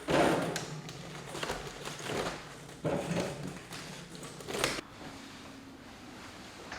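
Drink cans and bottles being handled and set into a mini fridge: a handful of clunks and rustles over the first five seconds, the first the loudest, then quieter.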